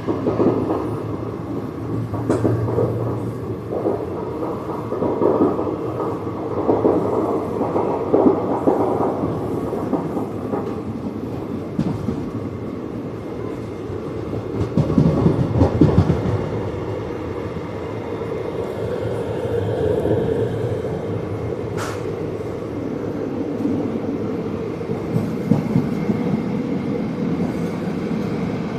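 Kaveri Express passenger train running on the rails: a continuous rumble of wheels and coaches that swells and eases, with clicks and clatter from wheels crossing rail joints.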